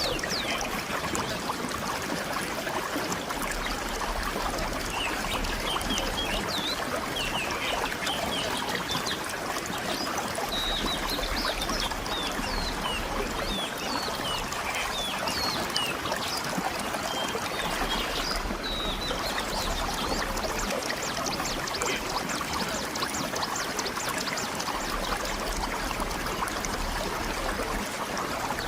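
Steady rushing outdoor ambience, with short high bird chirps scattered through it.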